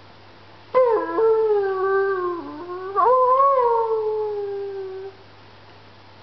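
Pomeranian puppy howling in two long, high, wavering howls. The second howl rises and then slowly sinks before it stops.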